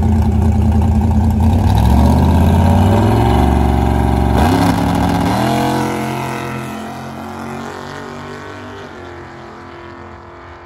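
A drag-racing Ford Falcon's engine launches off the start line. Its pitch climbs hard from about two seconds in, drops once at a gear shift halfway through and climbs again, then fades as the car runs off down the strip.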